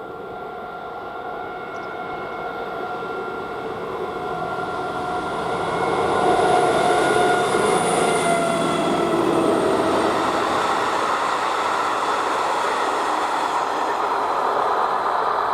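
A train approaching and passing, growing louder over the first six seconds. Several steady whining tones drop in pitch as it goes by, over the running rumble of wheels on rail.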